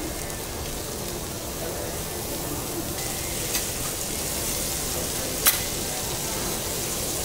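Butter and chunks of lobster meat sizzling steadily on a hot teppanyaki griddle, with a single sharp click about five and a half seconds in.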